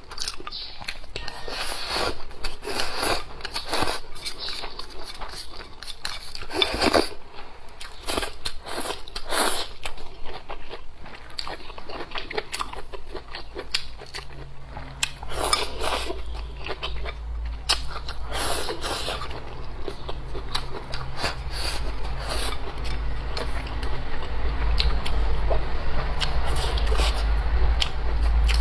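Close-miked chewing and biting of braised pig's trotter, rice and vegetables: irregular wet mouth clicks and crunches. A low steady hum comes in about halfway through and grows louder toward the end.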